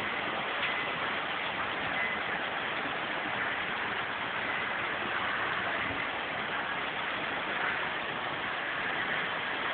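Hail falling in a steady, dense hiss, with an occasional sharper tick of a single stone.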